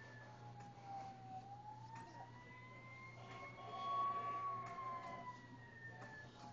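Toy fire truck's electronic siren wailing in a slow rise and fall of pitch. It dips low early on, climbs to its highest and loudest point about four seconds in, then falls again.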